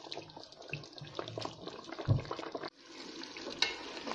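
Beef curry frying down in a pot, a steady sizzle full of small crackles and pops as the meat and spiced oil cook. There is a dull knock about two seconds in, and the sound cuts off sharply for an instant before carrying on.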